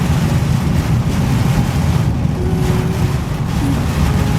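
Steady low rumble of a car's road and tyre noise heard from inside the cabin while driving on a wet highway in a rainstorm.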